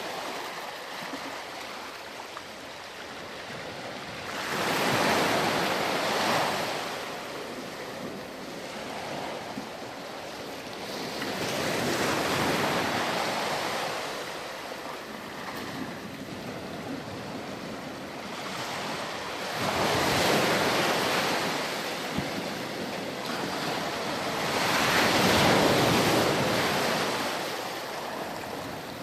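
Ocean waves breaking on a beach, each surge of surf swelling and fading away, about every six or seven seconds.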